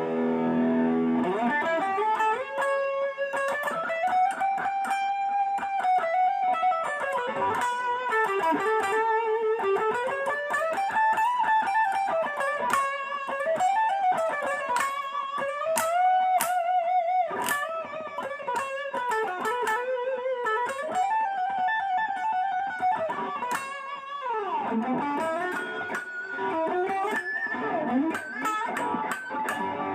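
Legend Les Paul electric guitar: a held chord rings out, then a single-note lead melody follows, with string bends and vibrato. Near the end the line slides down in pitch and back up.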